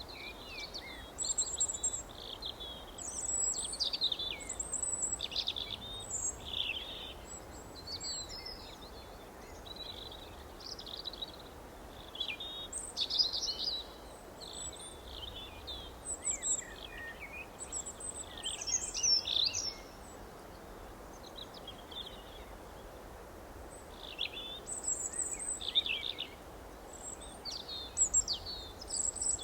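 Songbirds chirping and twittering in quick clusters of short high calls, with a lull of a few seconds past the middle, over a steady faint background hiss.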